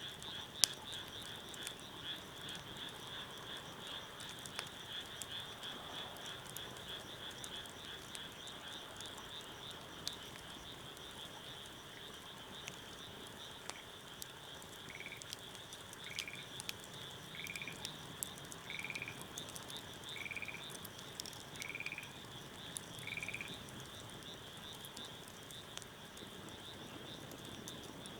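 A chorus of frogs calling in a steady pulsing trill. From about halfway in, another frog gives seven short calls a little over a second apart. Scattered sharp pops run throughout, fitting a crackling wood fire.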